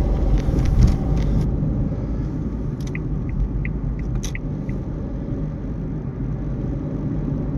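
Steady low rumble of a car on the move in traffic, road and engine noise heard from inside the car. A short run of faint high ticks comes in the middle, about three a second.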